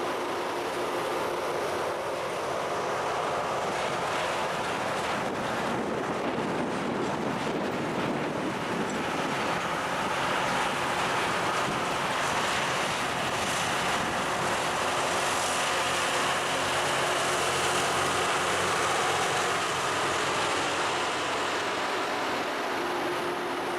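LORAM rail grinder's diesel engines running steadily, a constant mechanical drone with a faint hum, swelling a little around the middle before the grindstones start work.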